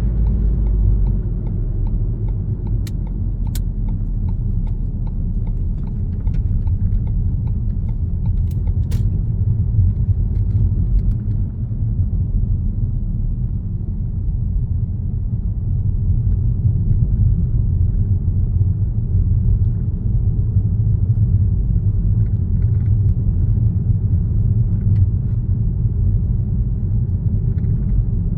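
Car driving along a road: a steady low rumble of engine and tyres, with a few faint clicks or rattles in the first ten seconds.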